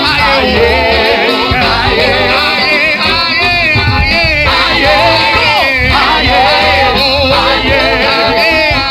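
Live gospel worship music: singing with wavering, ornamented melody lines over a band with steady bass.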